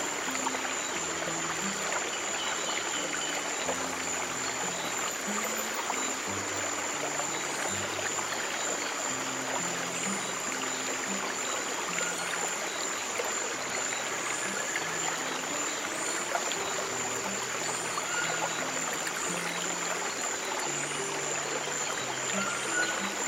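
Steady flowing stream water, with slow, soft, low sustained piano notes underneath. A steady high tone and a faint short high chirp repeating about every second and a half sit on top.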